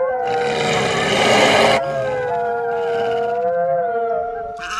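Wolves howling in chorus: long held notes at several overlapping pitches, levelling off and drifting slightly down. A loud rushing hiss runs under the howls for about the first second and a half.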